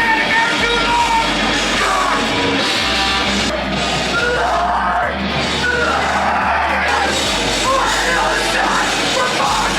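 Loud heavy rock music with yelled vocals, in the style of a hardcore band.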